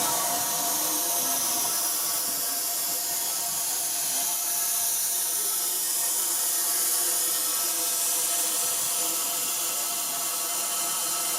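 Steam locomotive hissing steadily as steam is let off, with faint steady tones under the hiss.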